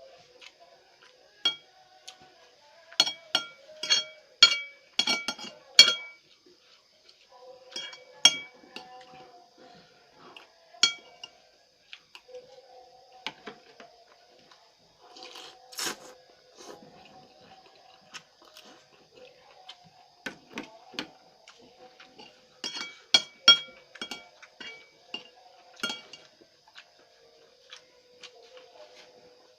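Metal cutlery clinking against a dish during a meal of noodles and rice, in bunches of quick ringing clinks with quieter pauses between.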